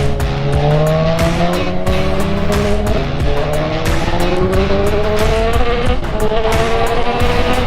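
Kawasaki Z1000R inline-four motorcycle engine under way, its note climbing slowly as it accelerates, with a break in the note about six seconds in. Background music with a steady beat plays over it.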